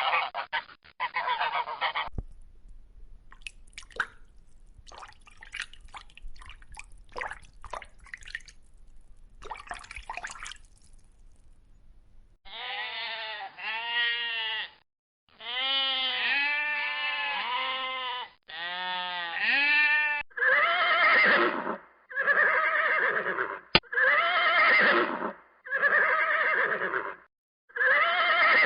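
Geese honking for about two seconds, then faint scattered drips and splashes of water for about ten seconds. After that, goats bleat over and over, each bleat a wavering call of about a second or two.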